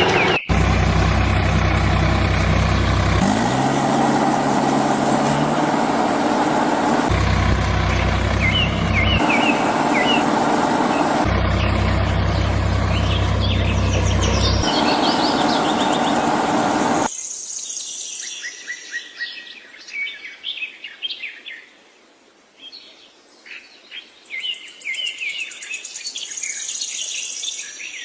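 An engine running in short spliced segments, rising in pitch once a few seconds in, with birds chirping over it; about two-thirds of the way through the engine cuts off and only birds chirping remain.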